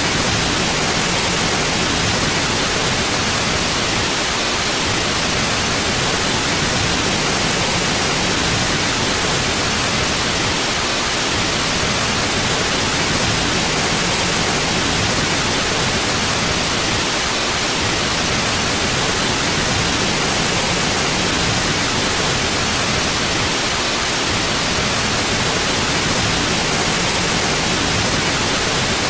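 Steady white noise: an even, unchanging hiss spread across the whole range from deep rumble to high treble.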